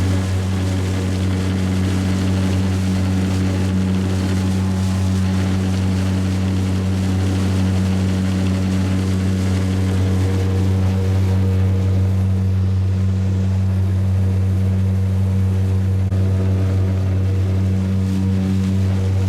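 A small boat's motor running steadily at constant speed, a low even hum with no change in pitch.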